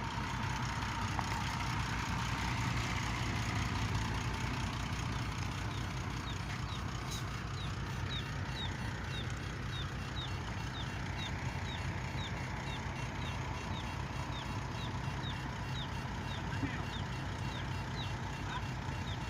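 Engine of heavy machinery, an excavator or dump truck, running steadily at a low hum. From about a third of the way in, a faint short high chirp repeats about twice a second.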